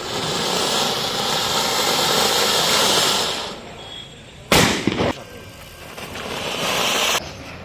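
Diwali fireworks: a long hissing burn, then a sharp bang with a short crackle about four and a half seconds in, then more hissing that cuts off suddenly near the end.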